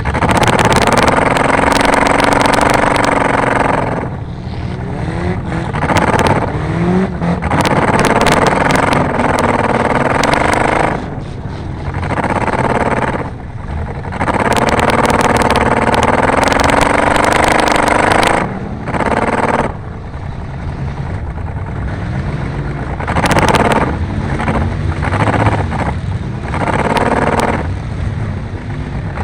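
Car engine revving hard in bursts of several seconds, pitch rising and dipping, easing off between bursts, with sharp clattering mixed in: a junk car racing round a dirt track.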